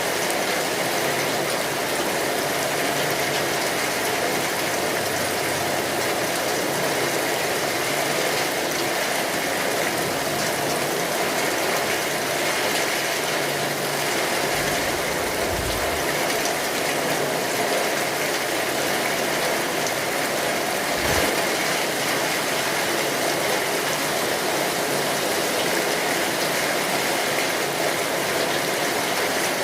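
Steady rainfall, a dense even patter and hiss. Two brief low thumps come in, one about halfway through and another a few seconds later.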